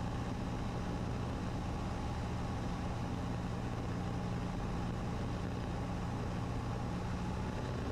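Cessna 150's Continental O-200 four-cylinder engine and propeller droning steadily at approach power on short final, the pitch holding level throughout.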